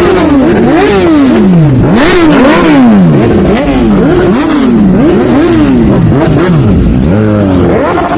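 Motorcycle engines revved over and over, their pitch climbing and dropping about once a second, with more than one engine overlapping.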